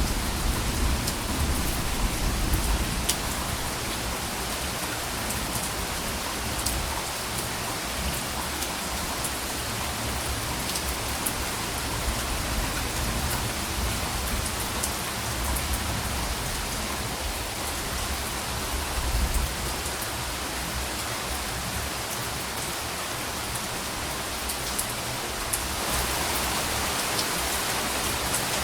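Steady rain falling, with soft low rumbles of distant thunder near the start and again about two-thirds of the way through.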